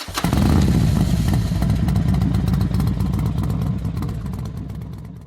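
Rewaco RF1 trike's engine running steadily with a fine mechanical clatter, easing off a little before cutting off abruptly near the end.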